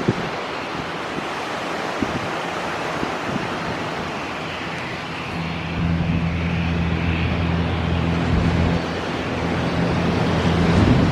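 Steady roar of a jet airliner's engines with wind buffeting the microphone; a low steady hum joins about halfway through and the noise grows a little louder.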